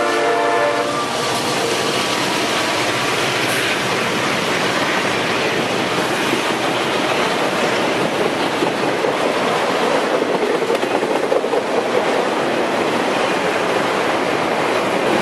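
Freight train's autorack cars rolling past on the rails, a steady, continuous noise of wheels and cars. The locomotive horn's chord fades out about a second in.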